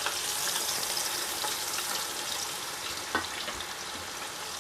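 Thinly sliced onions and whole spices frying in hot oil in a nonstick pan: a steady sizzle, with a couple of light knocks from a spoon stirring.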